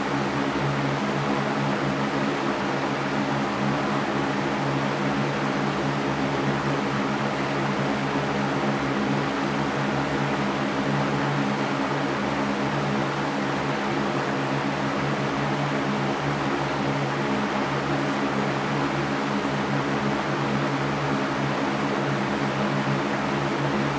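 Electric fan running steadily: a constant airy whoosh with a low motor hum underneath.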